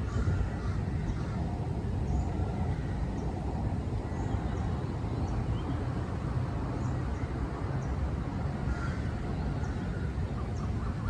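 Songbirds chirping in short, high notes every second or so over a steady low rumble, typical of city traffic heard from a park.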